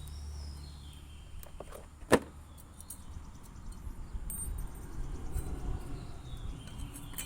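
Small metal parts of an angle grinder being handled as a cutting disc and washer are fitted, with a few light clicks and one sharp click about two seconds in, over a low steady rumble.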